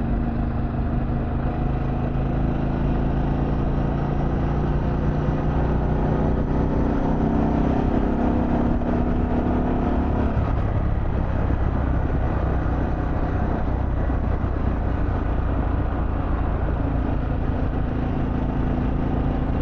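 Harley-Davidson Pan America Special's Revolution Max 1250 V-twin running while riding. The engine note rises steadily from about four seconds in, then drops abruptly about halfway through and runs on at a steady pitch.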